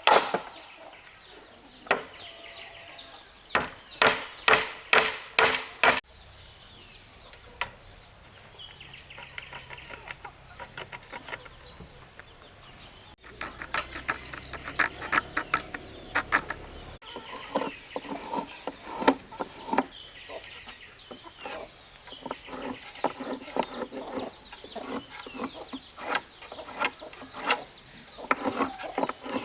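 A quick run of about six sharp strikes on wood, then chickens clucking and calling for the rest of the time.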